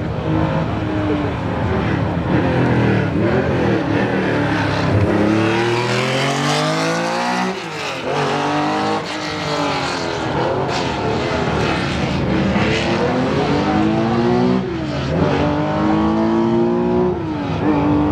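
Prepared rally car engine accelerating hard along a straight. Its pitch climbs and drops back sharply at each gear change, several times over, and a car passes by about halfway through.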